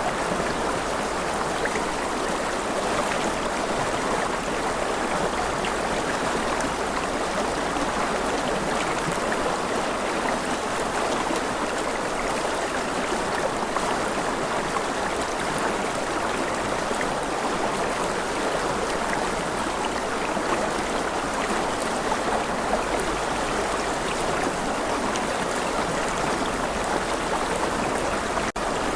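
Steady rushing water, like a stream, with a brief dropout near the end.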